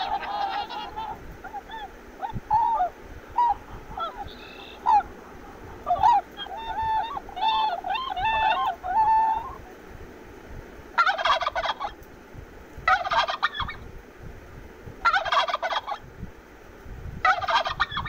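Over the first half, a swan gives a run of short pitched calls, coming faster for a few seconds before they stop. Then a turkey tom gobbles four times, each gobble about a second long and about two seconds apart.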